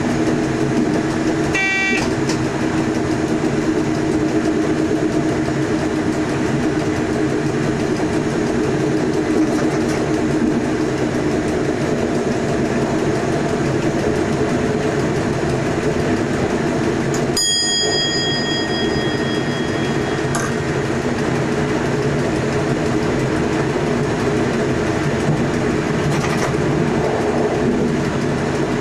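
Electric passenger train running steadily along the line, heard from the driver's cab. There is a short pitched beep about two seconds in. Just past the halfway point a cab bell rings out and fades, the in-cab bell that sounds when the train passes a signal showing proceed.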